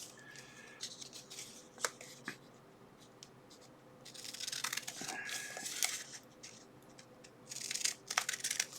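Plastic packaging being handled: crinkling and rustling in two bursts, about four seconds in and again near the end, with a few light clicks between them.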